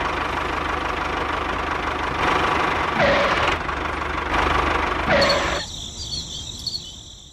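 Steady engine-like rumbling, with two brief swells about three and five seconds in; it cuts off about five and a half seconds in and fades away.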